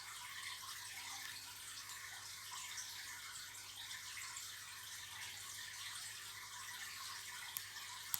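Faint steady hiss, like running water or room noise, over a low hum, with a few light clicks near the end.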